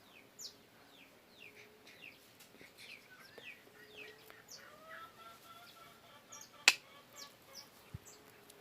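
Faint bird calls: many short, quick, falling high chirps throughout, with a longer drawn-out call in the middle. A single sharp click about two-thirds of the way through is the loudest sound.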